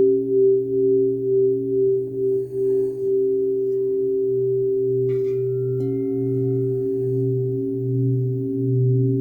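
Crystal singing bowls sounding together in long, sustained tones that pulse and waver. A faint higher ringing tone joins about six seconds in.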